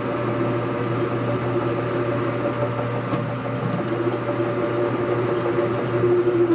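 Metal lathe running steadily with a center drill feeding into the end of the spinning part, a constant motor hum with a few steady tones, one of which grows stronger near the end.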